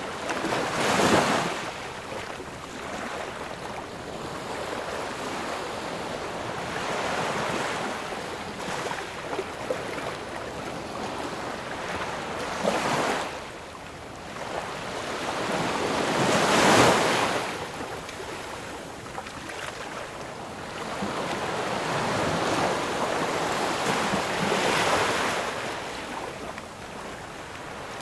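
Ocean surf: waves breaking and washing on a shore, a continuous rushing wash that swells into louder breaks every several seconds, the loudest about a second in and a little past the middle.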